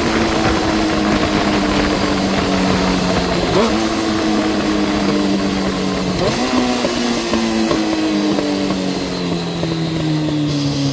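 Yamaha Fazer 600 inline-four engine running through its newly fitted aftermarket silencer. The engine note sinks slowly and jumps back up in pitch a few times.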